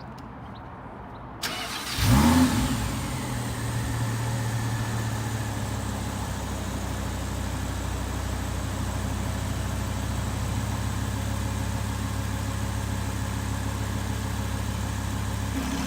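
Audi R8 V10 Plus's 5.2-litre V10 with a Capristo exhaust starting up. A brief starter sound is followed by the engine catching with a sharp rev flare, then settling into a steady idle. Just before the end the idle note steps up as the exhaust valve switches fully open.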